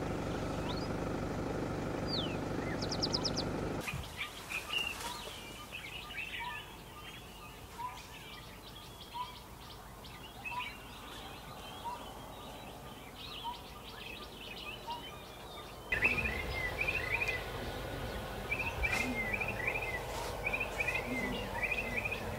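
A vehicle engine running steadily for the first few seconds, then stopping abruptly, leaving a chorus of wild birds chirping and calling, one repeating a short note about once every second and a half. The chirping becomes louder and busier about two thirds of the way through.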